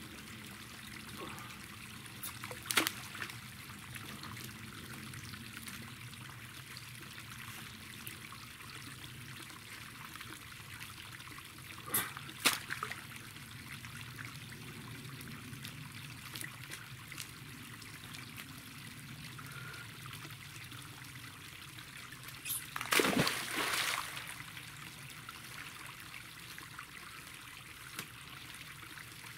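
Water trickling steadily through a leak in an earthen dam, with a few sharp knocks over it; the loudest lasts about a second, near the end.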